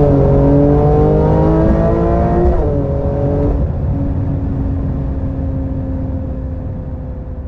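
Porsche 911 Turbo S's 3.8-litre twin-turbo flat-six accelerating, its pitch rising and dropping at an upshift about two and a half seconds in and again a second later. It then settles into a steadier, lower note that fades away.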